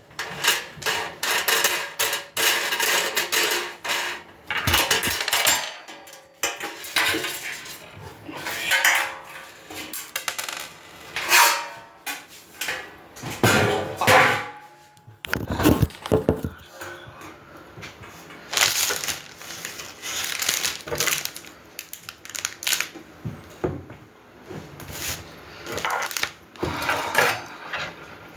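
Metal grill parts clanking and rattling in irregular knocks as the grill is put together by hand.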